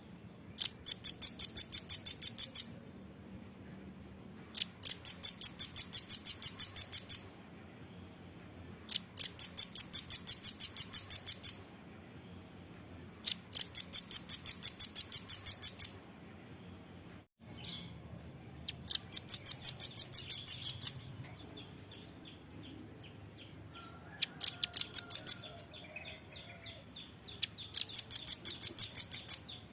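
Velvet-fronted nuthatch calling in seven bursts of fast, high-pitched repeated notes, about five or six a second, each burst lasting about two seconds, with short pauses between them.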